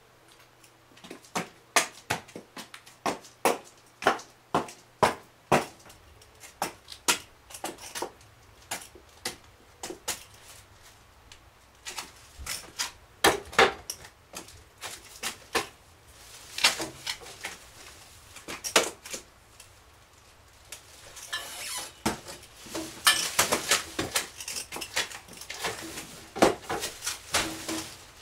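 An irregular series of sharp clicks and knocks of hard objects, like handled crockery or utensils, growing denser and louder in the last several seconds.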